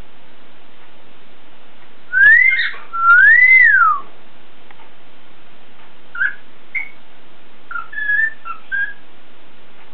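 Cockatiel whistling: two long swooping notes that rise and fall, about two seconds in, then a couple of short chirps and a quick run of short notes near the end, over a steady background hiss.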